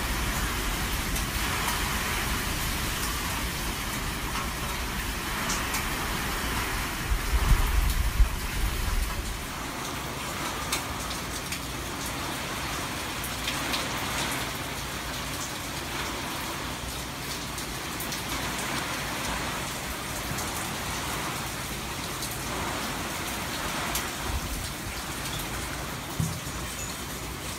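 Heavy rain falling steadily. Gusts of wind rumble on the microphone over the first nine seconds, loudest about eight seconds in.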